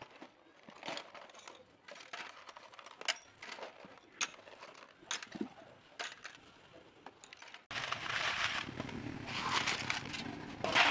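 Light metallic clicks and clinks of tools and small engine parts being handled, scattered and irregular. About two-thirds of the way through, the sound jumps suddenly to a louder, denser clatter and noise.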